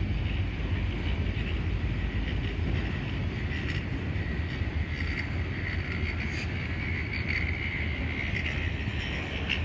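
Freight train rolling past with a steady low rumble. A thin, wavering high-pitched squeal rises over it partway through and fades near the end.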